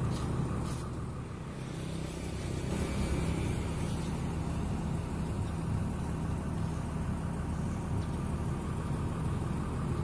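Mitsubishi Fuso light truck's diesel engine running steadily, a low even drone.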